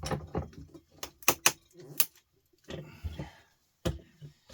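Several sharp clicks and clinks of metal and plastic as a three-pin mains plug is forced apart with a screw and a vice to push out its brass pins.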